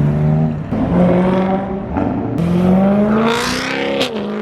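Sports car engines running at low speed, with one rising rev about halfway through; the engine note jumps abruptly a couple of times.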